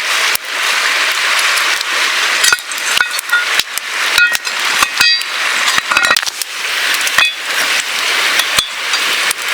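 Open wood campfire crackling, with a steady hiss and many sharp irregular pops, some of them ringing briefly like light clinks.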